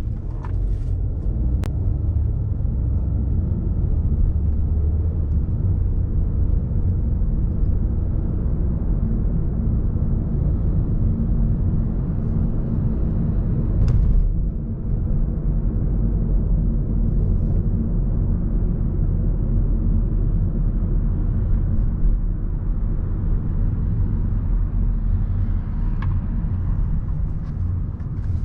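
Steady low rumble of city street traffic, with a few brief clicks.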